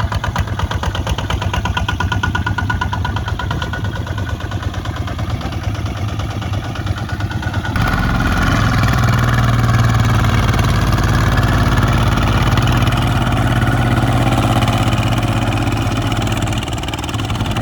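Kubota ZT155 single-cylinder diesel tractor engine running with a fast, even beat. About eight seconds in it gets louder and steadier.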